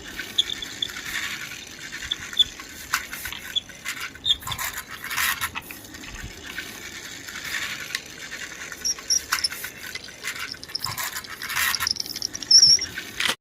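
A plastic toy school bus rolled along a surface by hand, its wheels and body giving an irregular clicking rattle and scraping, with a few brief high squeaks.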